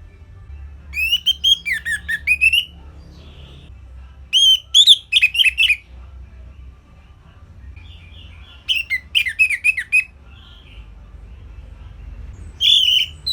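Orange-headed thrush singing in four short phrases of quick, varied notes, a few seconds apart, with the last phrase starting near the end.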